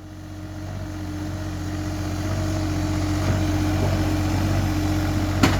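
A motor vehicle's engine running steadily, growing louder over the first couple of seconds as it comes closer, with a single sharp click near the end.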